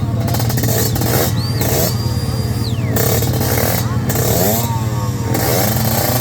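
Motorcycle engines revving in repeated quick rising blips over a steady low hum.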